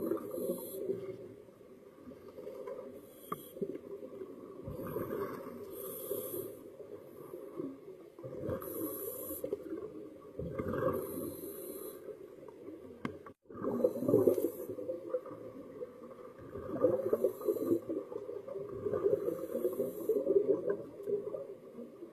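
Scuba diver breathing through a regulator underwater, with rushes of exhaled bubbles every two to three seconds over a steady low rumble.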